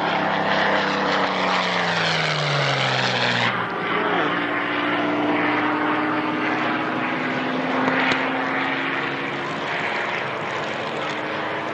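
Propeller aircraft engine drone passing by, its pitch falling over the first few seconds, then a steadier engine note after a sudden change about three and a half seconds in.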